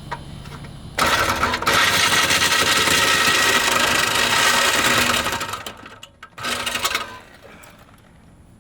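Corded power cutting tool cutting through a steel exhaust pipe: it runs loud for about four seconds with a brief break near the start, winds down, then runs again in one short burst.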